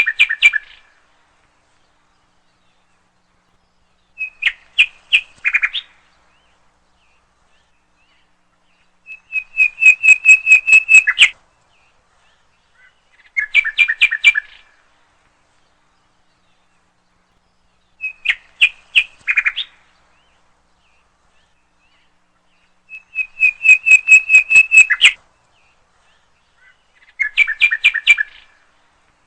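A songbird singing loud, clear phrases of rapid repeated whistled notes, about one phrase every four to five seconds, with near silence between them.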